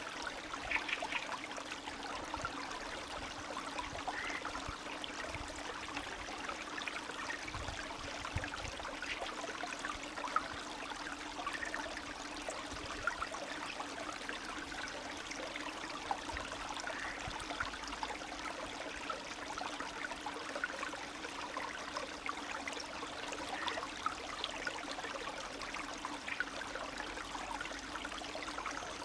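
Spring stream flowing and trickling steadily, with many small bubbling splashes over a constant rush of water.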